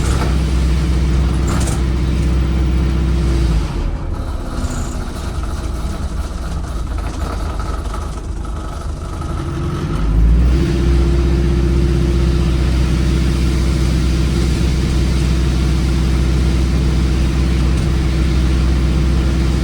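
The bus's Cummins ISBe 4.5-litre diesel runs loud and steady at high revs under full throttle. A little under four seconds in, the engine note falls away and the sound goes lighter for about six seconds. Near the ten-second mark the engine note rises and comes back to the same loud, steady high-rev running.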